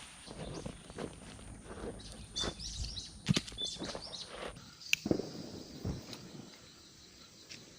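Birds chirping for about a second and a half, a few seconds in, among scattered sharp knocks and soft rustling.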